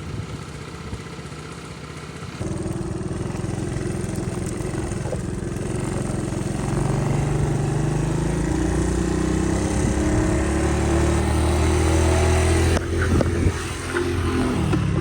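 1979 Honda Trail 70's small single-cylinder four-stroke engine running on a freshly replaced carburetor. About two and a half seconds in it gets abruptly louder, then its pitch climbs steadily as it accelerates, and it drops off suddenly near the end.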